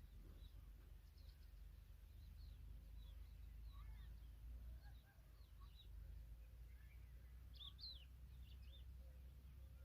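Faint, scattered high bird chirps and twitters, with a brief cluster of louder ones about eight seconds in, over a low steady rumble.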